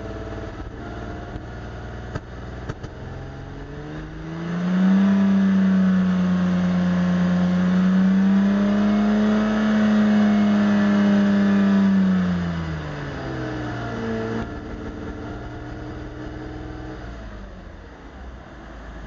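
Mercedes R129 300 SL straight-six idling roughly, then revved and held at raised revs for about seven seconds before dropping back to idle. The rough running follows misfires.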